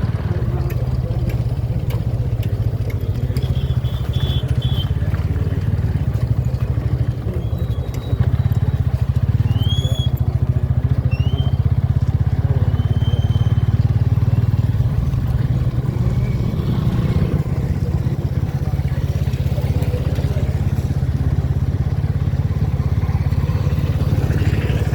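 Motorcycle running on the road, a steady low engine rumble mixed with wind noise that gets louder about a third of the way in. A few short high chirps come in briefly near the middle.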